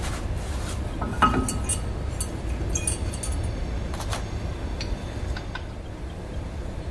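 Metal brake parts clinking and clicking as a disc brake caliper assembly is handled and fitted back together: a scatter of light metallic clicks, the loudest about a second in with a brief ring, over a steady low rumble.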